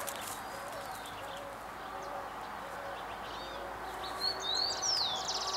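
Wild birds calling: a low, soft note repeats about twice a second. From about four seconds in, a louder high-pitched song of sweeping whistles and chirps ends in a fast trill.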